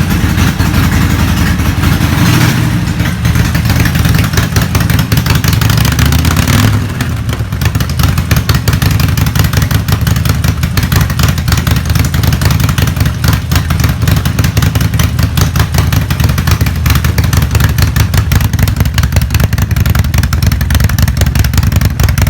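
Harley-Davidson Sportster 1200 Roadster's air-cooled V-twin running through its exhaust, with a loping, uneven firing beat. It shifts in revs a couple of times in the first seven seconds, then settles into a steady idle.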